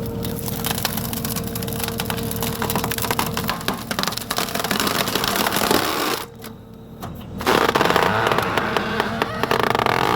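Skid steer's hydraulic tree shear closing on a tree, wood cracking and splintering over the running engine and hydraulics. The sound drops briefly a little past halfway, then the engine and hydraulics come back loud.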